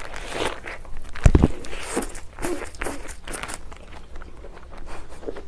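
Close-miked biting and chewing of a mouthful of a large burger: an irregular run of short soft clicks and mouth smacks, with one low thump about a second in.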